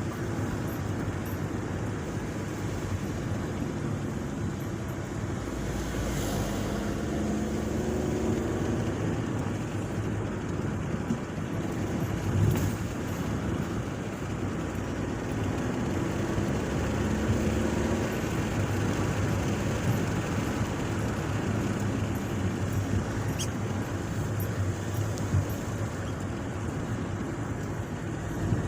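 Steady motor vehicle running, engine hum with road or wind noise.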